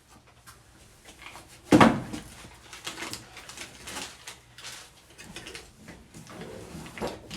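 A single loud clunk about two seconds in, followed by scattered small knocks and rustling, as parts and tools are handled during the install work.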